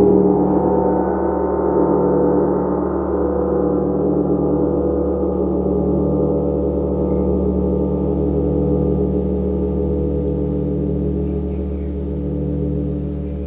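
A gong ringing on in a dense wash of many overlapping steady tones with a wavering shimmer, slowly fading a little toward the end.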